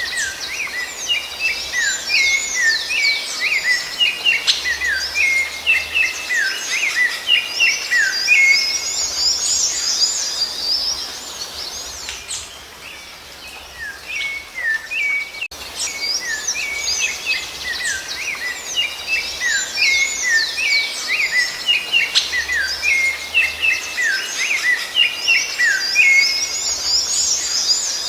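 Rufous-bellied thrush (sabiá-laranjeira) singing: fast, dense runs of varied chirped and whistled notes, with a brief lull about halfway through.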